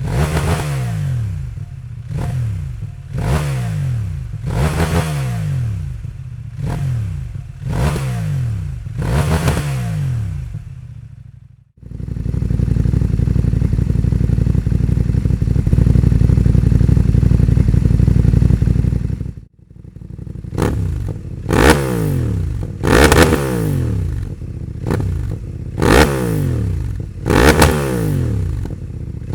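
CFMoto 800MT-X parallel-twin engine revved through a Dominator HP6 slip-on exhaust in repeated throttle blips, each rising and falling. About twelve seconds in, with a decat pipe fitted, the engine is held at steady high revs for about seven seconds. After a sudden cut it goes back to sharp throttle blips.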